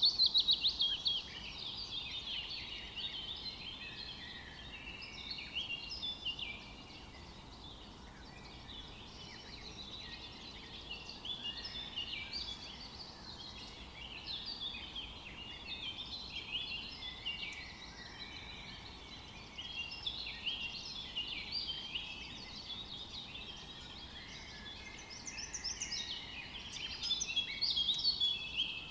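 A chorus of many small birds chirping and twittering without pause: a dense stream of quick, high chirps.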